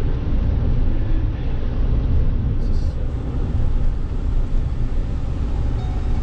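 Vehicle running with road noise, a steady low rumble.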